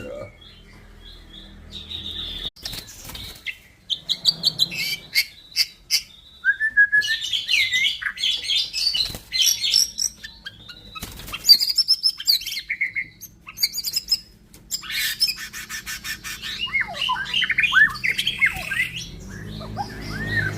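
White-rumped shama (murai batu) singing a long, varied song: clear whistles, fast trills and sharp clicking notes, with quick sweeping phrases toward the end.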